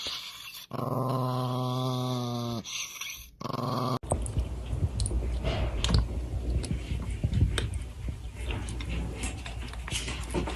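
An animal's long, low, drawn-out calls, two of about two seconds each, followed by a shorter one. About four seconds in the sound changes to a noisier mix of scattered clicks, knocks and a low rumble.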